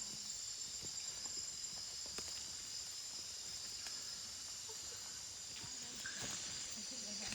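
Steady chorus of rainforest insects such as crickets and katydids, a continuous high-pitched buzz, with a few faint ticks and rustles.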